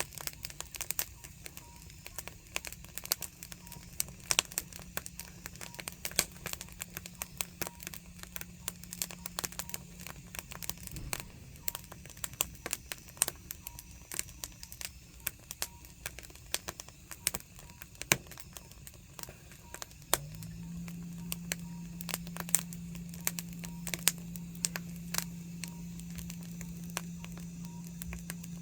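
Burning firewood crackling, with irregular sharp pops and snaps. A low steady hum runs underneath, fading out about a third of the way in and coming back louder about two-thirds in.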